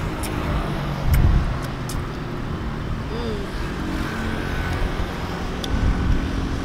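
Road traffic going by, a steady low rumble that swells about a second in and again near the end, with a few sharp clicks.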